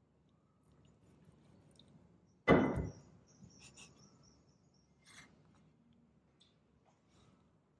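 A single sharp knock about two and a half seconds in, with a brief ring, followed by a few faint light clicks.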